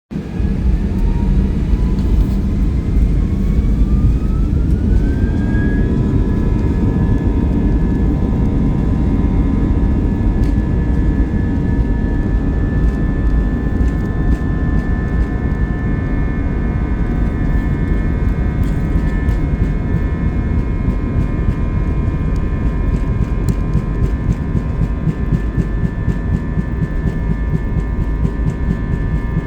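Airbus A321 jet airliner on its takeoff roll: the engines spool up to takeoff thrust, their whine rising in pitch over the first five or six seconds and then holding steady above a heavy low rumble.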